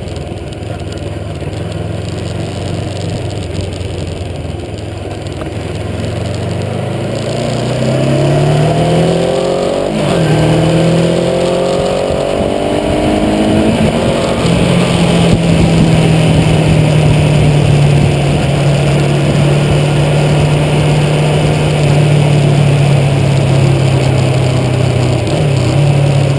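Motorcycle engine running steadily at low revs, then revving up about seven seconds in. The revs dip briefly around ten seconds, climb again, and from about fourteen seconds hold steady at a higher speed.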